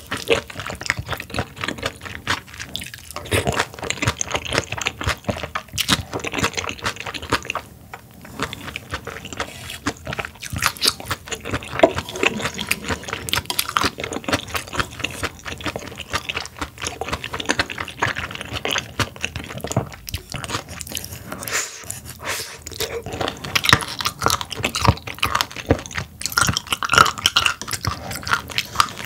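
Close-miked chewing: dense, irregular wet crunching and smacking of food in a person's mouth.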